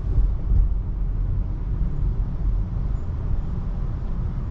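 Steady low road and tyre rumble of a 2024 Tesla Model 3 Long Range driving on wet roads, heard from inside the car. The car is electric, so there is no engine note under the rumble.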